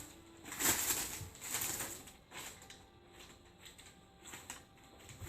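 Paper crinkling and rustling in uneven bursts as kittens tumble and bat about in a pile of loose paper, louder in the first couple of seconds and fainter after.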